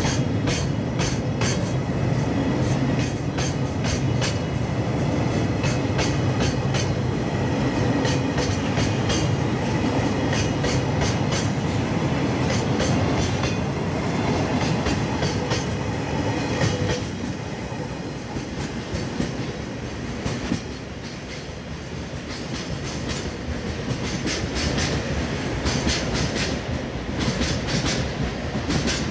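Freight train of oil tank wagons rolling past, with a low rumble and a steady rhythm of wheel clacks over the rail joints. About two-thirds of the way in the rumble drops away as the end of the train goes by, and the clacking carries on more faintly as it recedes.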